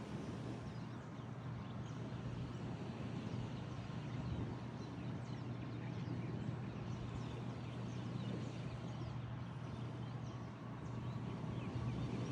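Many small birds chirping and calling in quick, short notes throughout, over a steady low hum and rumble.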